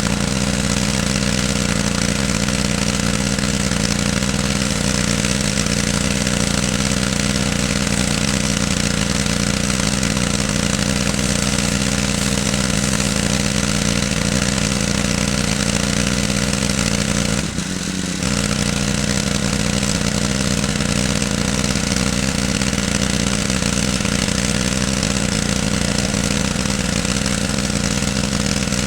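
Small petrol-engine pressure washer running steadily, its engine humming under the hiss of the spray as degreaser is rinsed off an engine block; the sound briefly drops out for about half a second near the middle.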